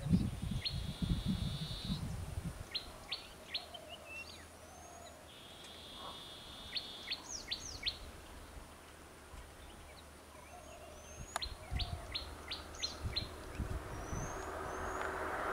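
Birds calling, a high held whistle about a second long followed by a quick run of short notes, repeated several times. Low rumbling in the first couple of seconds, and noise rising near the end.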